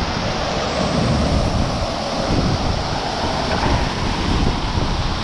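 Loud, steady rush of falling water at a waterfall, with wind buffeting the microphone.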